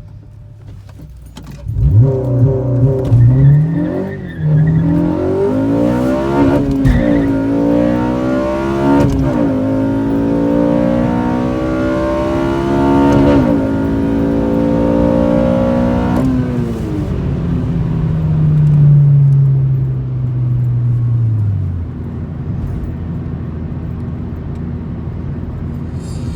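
Honda K20Z3 four-cylinder in a 2009 Civic Si, through a Skunk2 header and Rev9 full exhaust, pulling hard at full throttle through the gears. It revs up in rising sweeps with upshifts about 4, 7 and 9 seconds in, then pulls long in a higher gear. About 16 seconds in it goes off throttle, and the engine note falls to a steady idle. The owner says the exhaust has bad air leaks.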